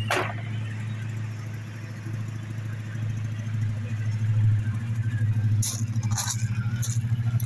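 Dodge 880's V8 engine idling with a steady low hum and a pulsing beat. A short falling swish right at the start and three sharp clicks in the second half.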